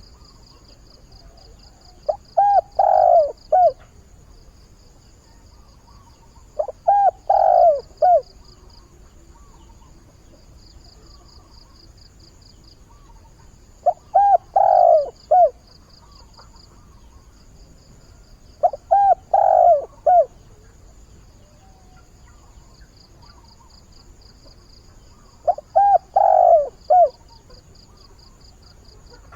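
Decoy spotted dove cooing, calling to attract wild doves: five short cooing phrases of a few notes each, spaced several seconds apart. A faint, fast, high pulsing trill runs steadily underneath.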